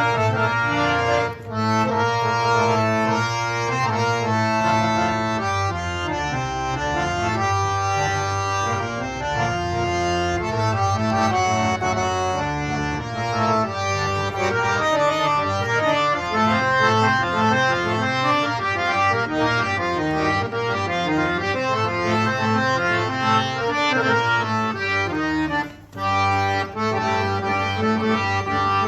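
Reed harmonium playing a solo melody over sustained lower notes, with a short break in the sound about 26 seconds in.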